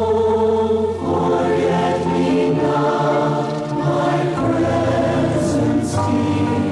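A choir of voices singing a devotional hymn in sustained chords that change every second or two, with two sung 's' sounds near the end.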